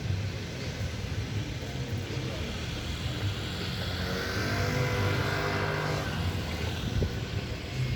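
An engine passing by: a motor's hum and hiss swell to a peak about halfway through, then fade, over a steady low rumble.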